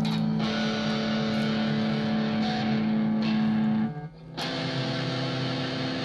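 Guitar instrumental intro: a chord rings and holds, drops out briefly about four seconds in, then a new chord is struck and held.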